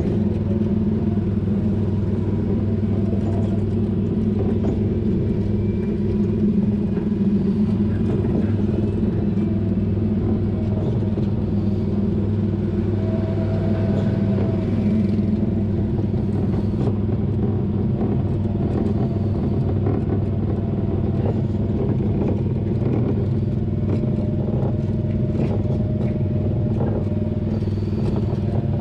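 Small petrol engine of a ride car running steadily, with a low, even hum.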